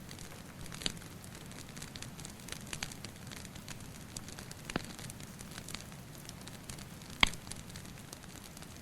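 Wood fire crackling: a steady low rustle broken by scattered sharp pops and snaps, one much louder pop about seven seconds in.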